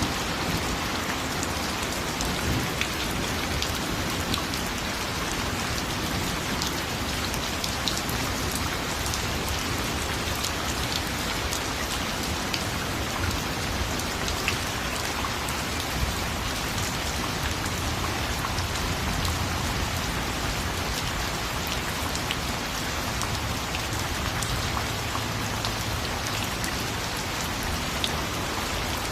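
Steady rain falling on a surface: an even hiss with many separate drop hits scattered through it.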